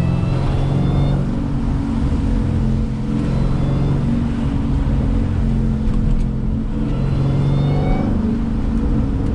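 Jeep Grand Cherokee Trackhawk's supercharged 6.2-litre V8 pulling under acceleration, its pitch climbing in three rising pulls over a steady low rumble.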